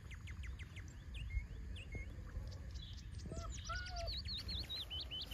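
Small birds chirping: a run of quick short notes, then a series of repeated rising-and-falling chirps in the second half, over a steady low background rumble.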